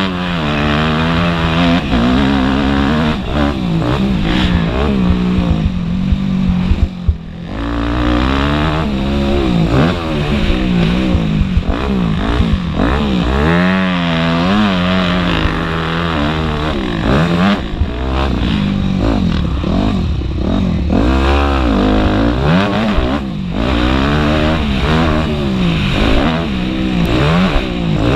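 Motocross bike engines racing, the pitch climbing and dropping again and again as the throttle is opened and shut, with more than one bike heard at once.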